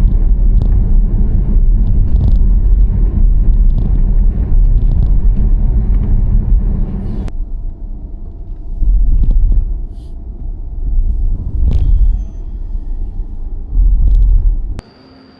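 Loud, low rumble of a moving car, swelling and easing in several surges, with abrupt cuts about seven seconds in and near the end.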